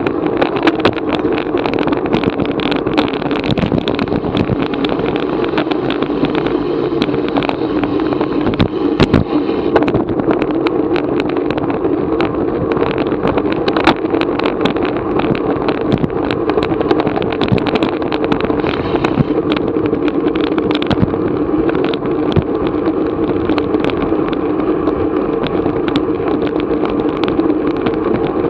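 Steady rushing ride noise from a racing bicycle under way, wind and road noise on the bike-mounted action camera, with frequent small clicks and rattles.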